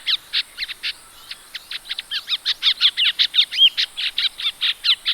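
Ashy drongo calling: a rapid, varied run of short whistled and chattering notes, several a second, each bending in pitch. The notes thin out about a second in, then come denser and louder.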